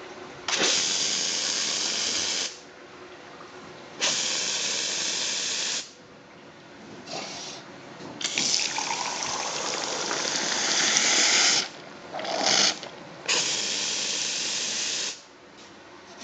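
Steam hissing from a steam boiler's outlet in repeated bursts that start and stop abruptly. Most bursts last about two seconds; the longest, near the middle, runs about three and a half seconds and carries a faint rising tone.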